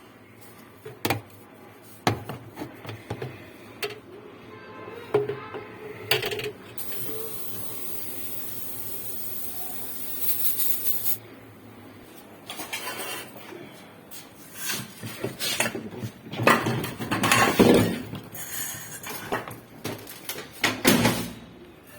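Irregular metallic clinks, knocks and clatter of tools and metal parts being handled during a washing machine clutch repair. They grow denser and louder in the second half. About seven to eleven seconds in there is a stretch of steady hiss.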